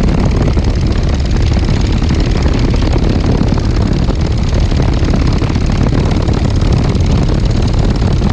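Legal Eagle XL ultralight's engine running steadily and loud, with no change in pitch or level.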